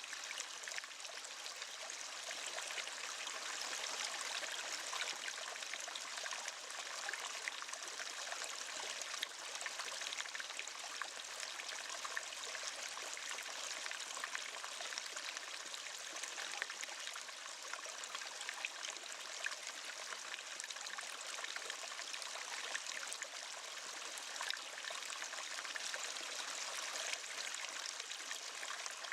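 Waterfall: a steady rush of falling water with fine splashing, even and unbroken.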